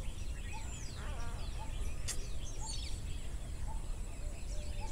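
Several wild birds calling at once around a lake. One bird repeats a short note a little more than once a second, while others give falling high whistles and a quick rattling call about a second in. A steady low rumble runs underneath.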